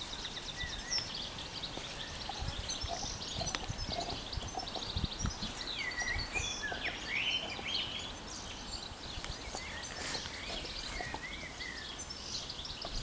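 Several birds singing and calling together: short chirps, whistled up-and-down glides and fast trills, the busiest stretch around the middle, over a low steady outdoor rumble.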